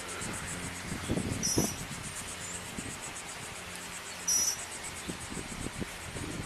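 Insects chirping: a steady, high, pulsing trill with short, louder chirps about every two and a half seconds, over low rustling and knocks.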